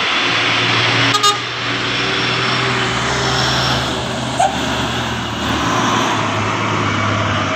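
Truck engine running steadily with road and traffic noise, and a short horn toot about a second in.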